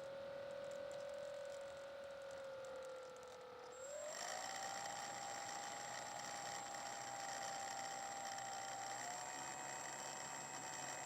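Electric motor and propeller of a Slow Stick park-flyer airplane, heard through its onboard microphone, whining steadily over a hiss. The pitch sags slightly, rises sharply about four seconds in as the motor speeds up, then steps up a little more near the end.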